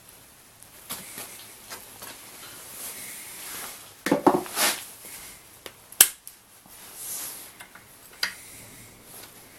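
Metal hand tools and small engine parts clinking and clattering while camshaft bearing cap bolts are worked loose. A louder rattle comes about four seconds in, and single sharp clicks near six and eight seconds.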